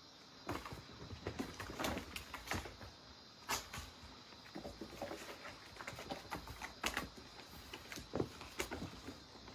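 Irregular patter of soft taps, thumps and rustles, starting about half a second in: cats scuffling and pawing at each other while playing.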